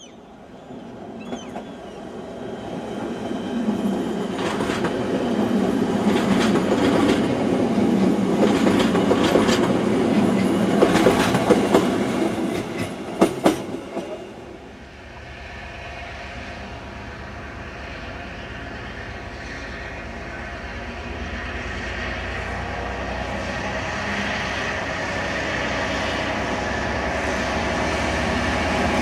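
An X31 electric multiple unit passes with a rising rumble and clatter of wheels on rail and a few sharp wheel clicks over rail joints, then fades away about halfway through. After that the diesel engine of a TMX (ex-DSB NOHAB MX) locomotive runs steadily and grows louder as it approaches.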